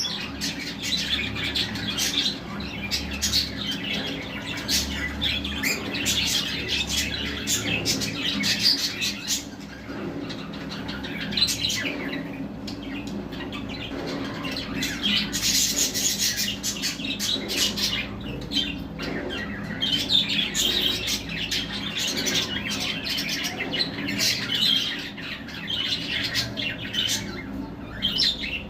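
Budgerigars chirping, chattering and squawking without pause, many short calls overlapping, over a steady low hum.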